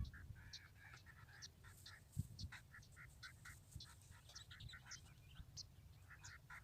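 Faint bird calls: short high chirps and lower chirping notes repeating every half second or so over a low rumble, with a soft thump a little over two seconds in.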